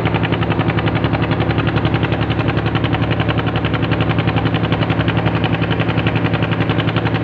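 A ship's diesel engine running steadily while the vessel waits to depart, a loud even throb pulsing many times a second.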